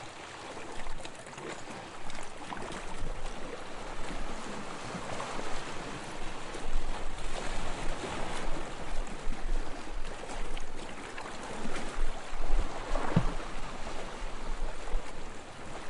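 Sea water splashing and lapping in uneven surges, with a low wind rumble.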